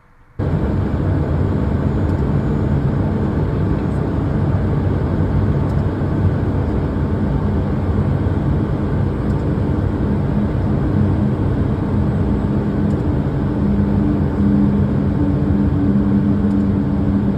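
Steady loud rumble of a running vehicle. It cuts in abruptly about half a second in, and a low hum rises slightly near the end.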